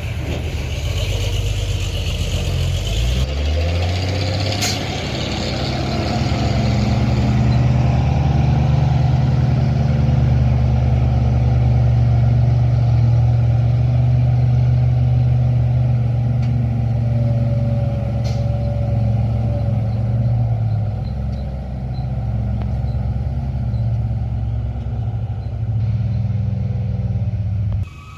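Diesel truck engine revving up about three seconds in, then running hard and steady under heavy load as a truck is towed up a steep climb.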